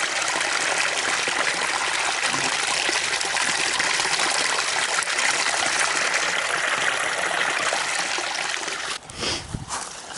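Small woodland stream running over rocks, a steady trickling rush of water. It drops away sharply about nine seconds in, followed by a few low thuds.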